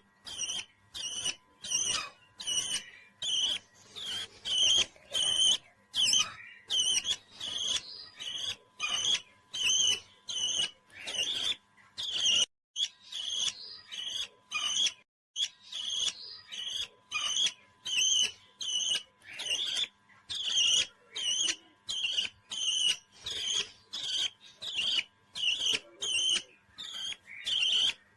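A pet parrot chirping in a long, regular run of short, high calls, about three every two seconds, with a couple of brief pauses midway.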